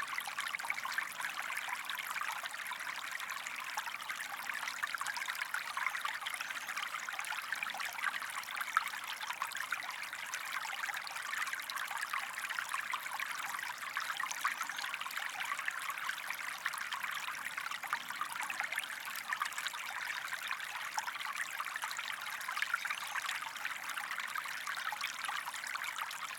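Recorded sound of a flowing stream, a steady trickle and babble of running water with no change through the stretch.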